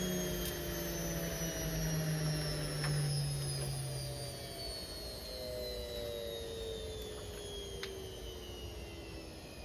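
Indesit IWC71453 washing machine's motor and drum winding down from a spin, a whine that slowly falls in pitch and grows quieter, with a few light clicks. The drum bearings are worn.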